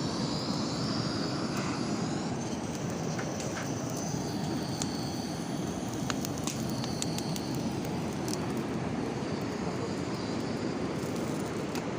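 Steady rushing outdoor noise with scattered faint crackles.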